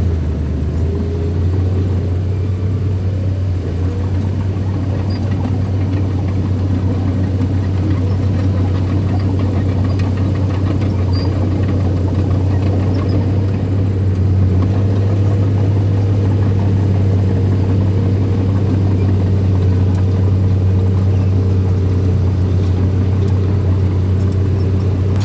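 Diesel engine of heavy earthmoving machinery running steadily with an even, low drone.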